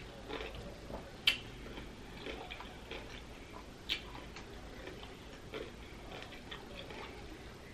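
Close-up crunchy chewing of pickled vegetables: irregular small wet crunches and clicks from the mouth, with two sharper clicks about a second and about four seconds in.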